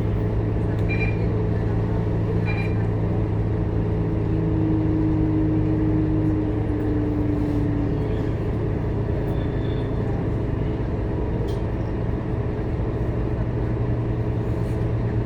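Scania K230UB Euro V city bus running, its diesel engine and drivetrain humming steadily as it drives. A whining tone falls slightly in pitch and fades a few seconds in, and the engine's note shifts about halfway through.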